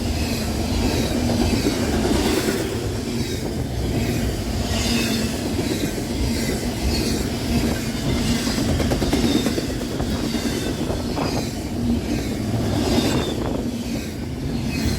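A train's cars rolling past on the tracks with a steady rumble and a rhythmic wheel clatter about once a second.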